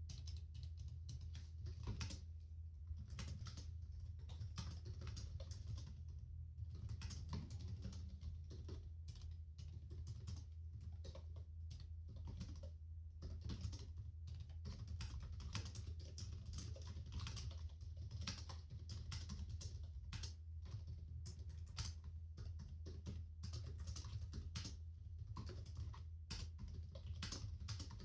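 Continuous, irregular typing on a computer keyboard, key clicks and clacks in quick runs with short pauses, over a steady low hum.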